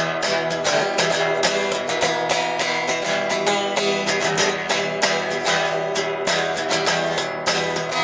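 Guitar strummed steadily in an instrumental passage with no singing, recorded on a phone's microphone.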